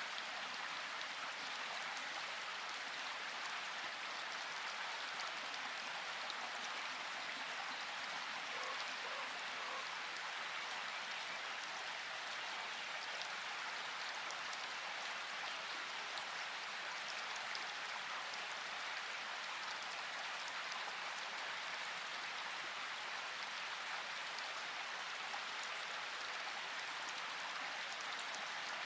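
Steady rain-like hiss of background noise with faint scattered ticks, even throughout.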